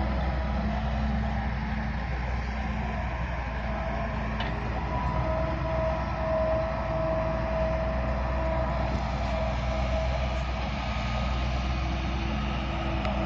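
Heavy diesel machinery engine running steadily with a low hum, and a higher steady whine held for a few seconds in the middle.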